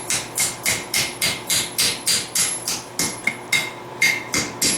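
Blacksmith's hammer striking a steel bar of flat stock on the anvil, bending it into an arc: a steady run of blows about three a second, each with a bright metallic ring, with a brief pause a little before the end.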